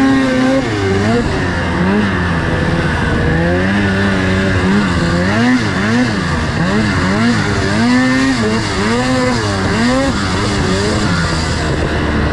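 Two-stroke 600 race snowmobile engine revving hard, its pitch rising and falling about once a second as the throttle is opened and chopped through the track's jumps and turns.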